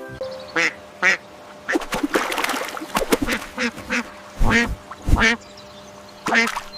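Duck quacking repeatedly: short separate quacks, with a quicker run of calls in the middle.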